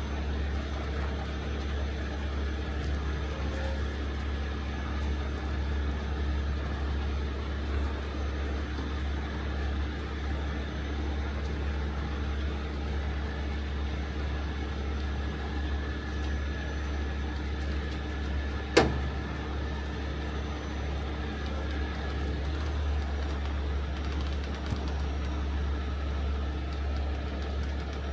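Heavy rotator tow truck's diesel engine running steadily under load during a lift, a constant low rumble. One sharp click about two-thirds of the way through.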